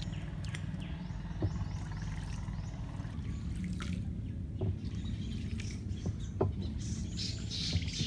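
Water dripping and knocking around a paddled boat, with a bird giving a quick run of short, high chirps in the first few seconds.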